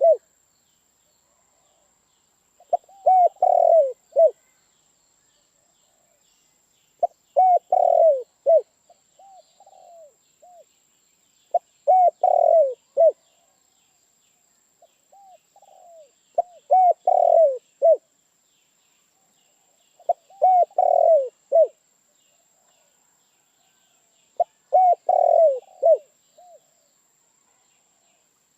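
Spotted dove (tekukur) cooing: a phrase of several short, hoarse coos repeated six times, about every four and a half seconds.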